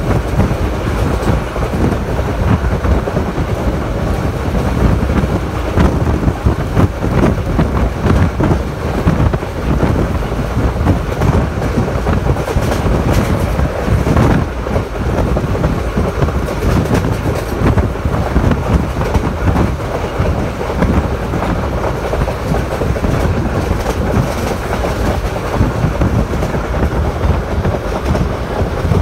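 Train running along the track, heard from on board: a steady, loud rumble of wheels on the rails with scattered clicks.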